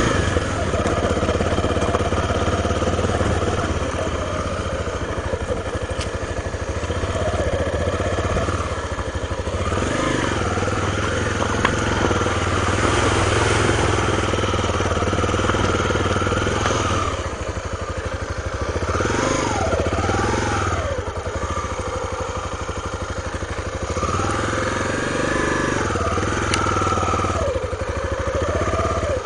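Honda Tornado trail motorcycle's single-cylinder four-stroke engine running under way over a stony riverbed, revving up and falling back several times.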